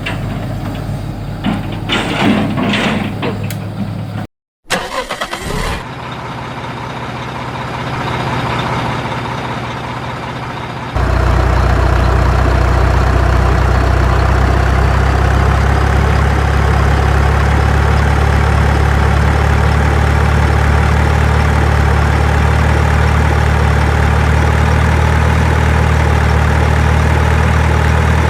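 Dump truck engine running. Knocks and clatter over the engine in the first few seconds, a brief gap, then a quieter engine sound that slowly swells. A little over a third of the way in it switches abruptly to a loud, steady idle with a deep hum.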